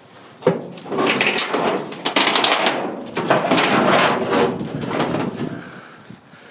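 A sharp knock, then about five seconds of scraping and clattering with many small knocks, fading near the end.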